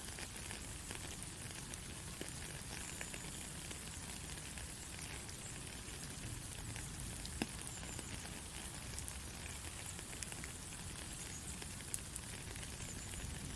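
Steady rain falling: an even hiss of water with scattered sharp drop taps, two of them louder in the second half.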